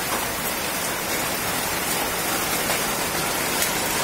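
Steady rain falling, an even hiss with a few faint sharper taps of drops.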